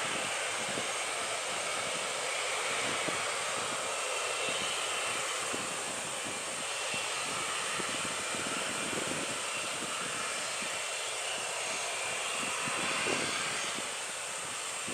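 Boeing 737 jet engines and airflow heard inside the cabin, a steady hiss-like drone with no change in pitch.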